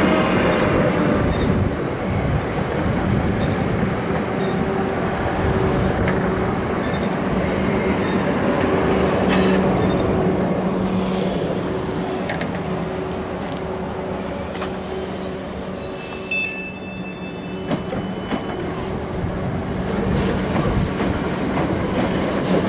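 South West Trains electric multiple-unit passenger trains passing close by: a continuous rumble of wheels on the track under a steady low hum. A few sharp clicks come at the quietest point, about two-thirds of the way through, and the sound grows louder again near the end as another train passes.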